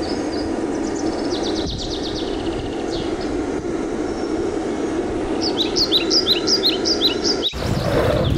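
Small birds chirping in runs of quick, high, falling notes, about half a second in and again from about five and a half seconds, over a steady rushing background noise. Near the end the sound breaks off abruptly into a broader, louder noise.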